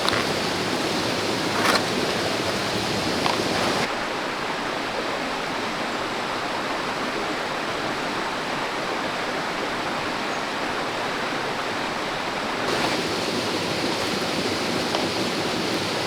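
Clear stream running over rocks: a steady rush of flowing water. It turns duller about four seconds in and brighter again near the end, with a few faint ticks in the first seconds.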